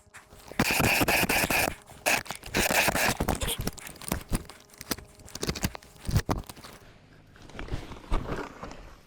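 Scraping and crunching on ice and slush in rough bursts, the two loudest in the first three seconds, followed by scattered shorter scrapes and knocks.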